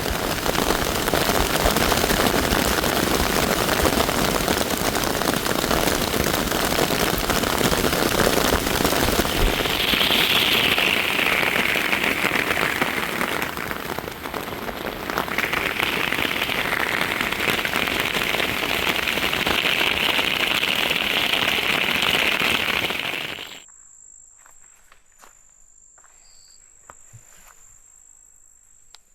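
Heavy rain falling, a dense crackling patter that stops abruptly about 23 seconds in, leaving a quiet background with a faint steady high whine and a few soft clicks.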